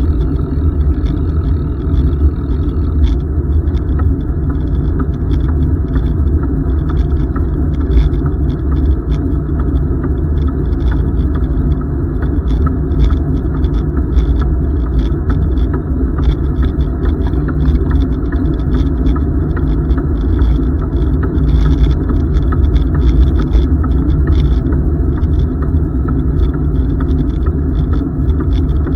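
Steady low rumble of wind on the microphone and bicycle tyres rolling on pavement while riding, with scattered faint clicks and rattles from the bike.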